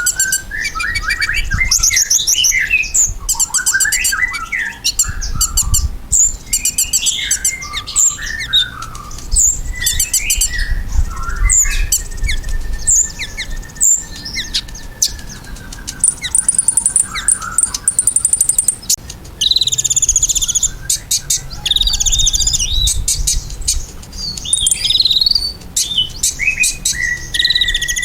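Kolibri ninja sunbird singing busily: fast, high-pitched chirps, twittering trills and rapid clicking runs, with brief pauses between phrases. This is the kind of song used as a lure to make a kept kolibri ninja answer.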